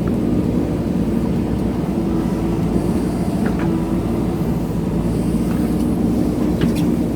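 JCB backhoe loader's diesel engine running steadily under digging load, with a few brief high-pitched squeaks from the working machine about half a second in, around three and a half seconds in, and near the end.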